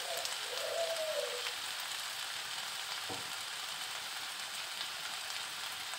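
Chopped chicken and vegetables sizzling steadily in oil in a frying pan on the flame, with a single soft knock about three seconds in.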